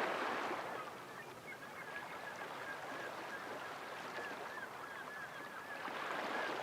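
A steady rushing noise with a faint, wavering bird call running through the middle.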